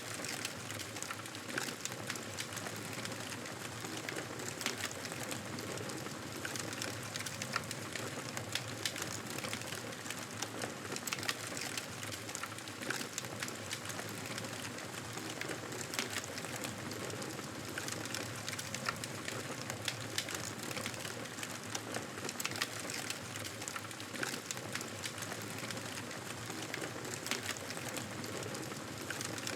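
Campfire crackling: a steady hiss with many small, irregular pops and snaps.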